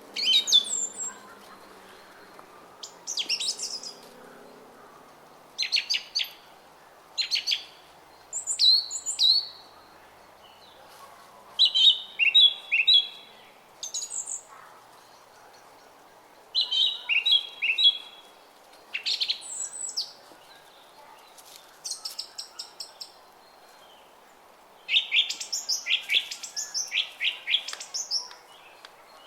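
Small songbirds singing short, high chirping phrases, repeated every second or two, over the steady rush of a running brook.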